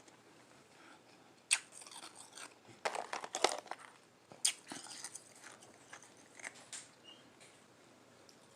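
Person biting and crunching frozen flavored ice close to the microphone: a sharp bite about a second and a half in, a quick cluster of crunches around three seconds, another bite a little later, then softer chewing.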